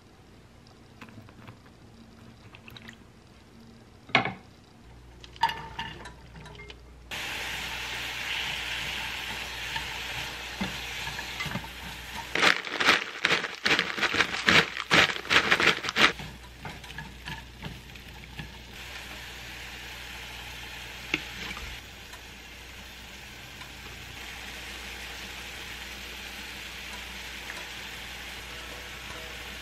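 Light knocks and splashes of vegetable strips handled in a bowl of water. About seven seconds in, a sudden steady sizzle starts as julienned root-vegetable strips fry in a hot stainless steel pan. From about twelve to sixteen seconds in there is a run of sharp clatters as they are stirred and tossed, then the sizzle carries on.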